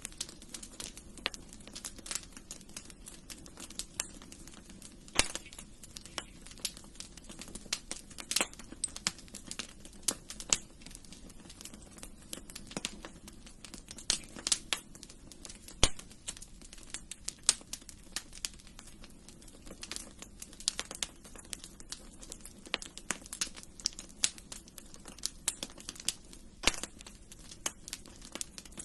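Wood fire crackling in a fireplace: irregular sharp pops and snaps, a few louder than the rest, over a faint steady low rush.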